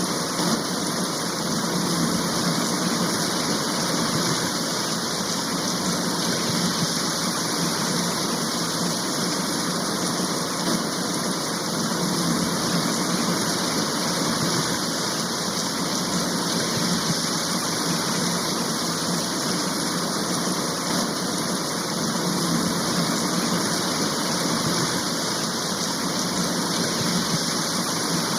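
Heavy rain shower falling steadily, an even hiss of rain with no breaks or separate drops standing out.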